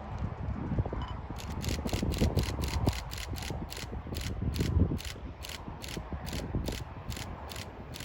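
Rapid, evenly spaced mechanical ticking or striking, about four a second, that starts about a second in, over a low rumble.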